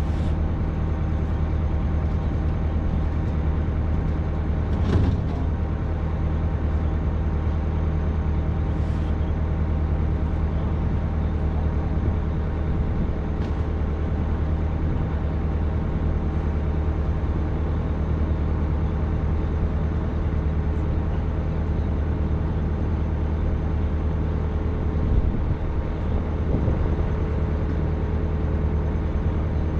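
Excavator's diesel engine running steadily with a deep, even hum, with a knock about five seconds in and another late on.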